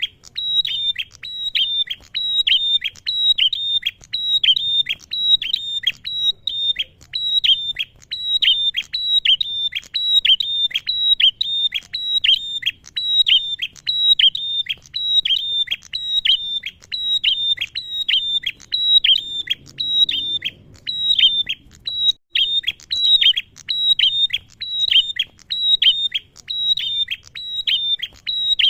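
Male prenjak (prinia) calling nonstop: a rapid run of short, sharp, high chirps at about two to three a second, with no break.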